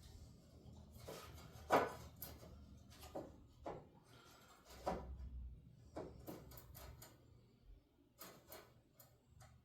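Wooden boards and hand tools being handled: a string of scattered sharp knocks and taps, the loudest a couple of seconds in, with no saw or motor running.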